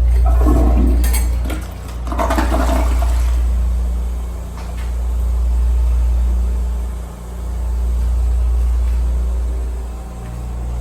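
Public restroom toilet flushing: rushing water over a loud, deep rumble that swells and fades several times.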